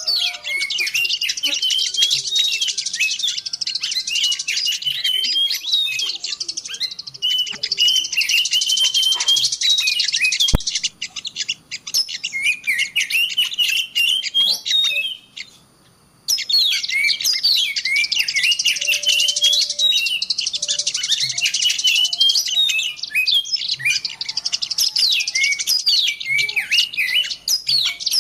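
Dense chorus of many small songbirds chirping and twittering rapidly and high-pitched, a recorded lure call (pikatan) for attracting small wild birds. It cuts out to near silence for under a second about halfway through, then resumes.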